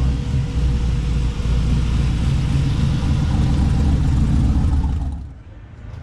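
A car engine running loudly and steadily at a low pitch, then falling away about five seconds in.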